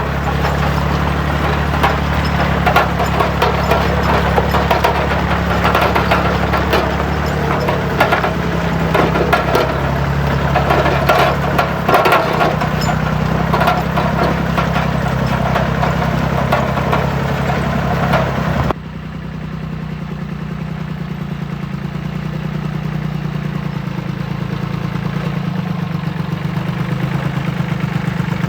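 Tractor engine idling steadily, with loud clattering and knocking over it. About two-thirds of the way through, the clatter cuts off suddenly and the engine runs on alone.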